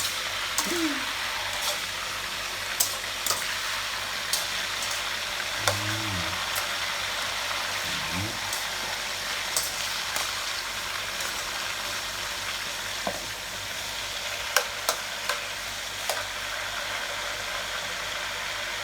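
Fish-sauce-marinated pork frying in hot oil: a steady sizzle with scattered sharp pops and clicks.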